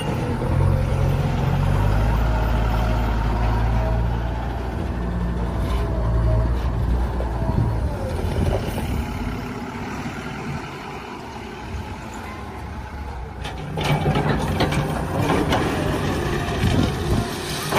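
Heavy diesel machinery at work, a backhoe loader and tractor, its engine running loud and steady at first, easing off, then picking up again about fourteen seconds in with a run of clattering knocks.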